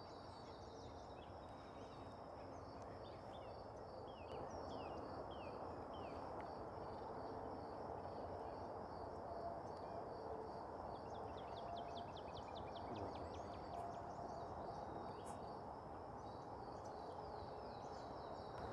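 Quiet outdoor ambience: a steady low rush of background noise with birds chirping. A long string of evenly repeated high notes runs through the middle, and a quick trill comes about two-thirds of the way in.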